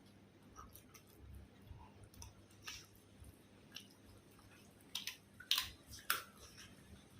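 A person chewing food close to the microphone, with scattered short clicks and crunches of eating; the loudest few come in quick succession a little past the middle.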